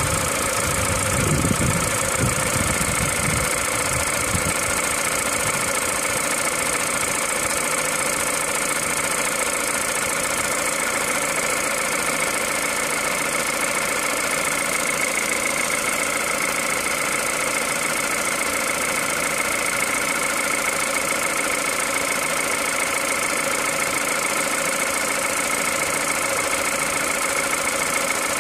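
Peugeot 207 VTi 120's 1.6-litre four-cylinder petrol engine idling steadily from a cold start, with a constant high whine over the mechanical running.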